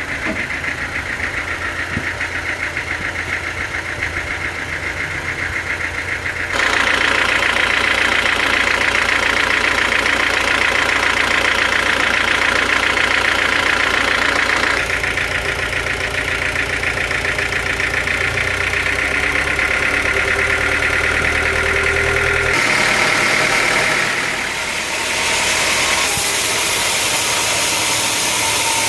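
Engine-driven sawmill machinery running steadily with a fast, even pulsing drone. The sound jumps abruptly to a different mix of machine noise several times.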